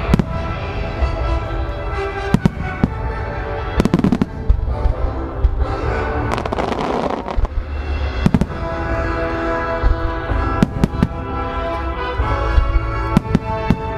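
Aerial fireworks booming again and again as shells launch and burst, with a dense rush of many bursts about halfway through, over continuous music.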